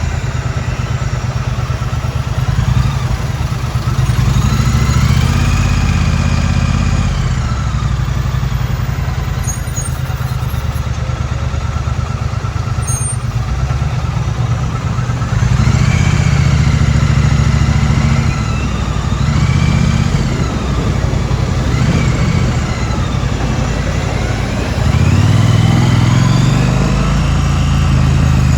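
2016 Triumph Street Twin's 900 cc parallel-twin engine running under way, its revs rising and falling several times as the bike accelerates and changes gear. The engine note is strongest about halfway through and again near the end.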